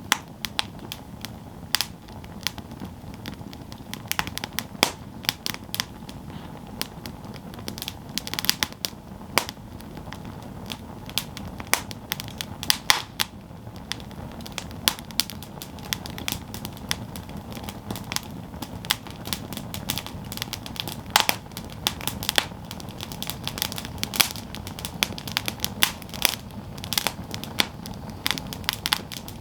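Campfire burning with irregular crackling and popping of the wood over a steady low hiss of the flames. A few pops are louder than the rest.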